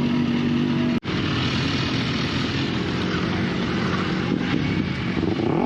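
BMW S1000RR's inline-four engine running under way, mixed with wind noise. The sound cuts out for an instant about a second in, and the engine note falls near the end.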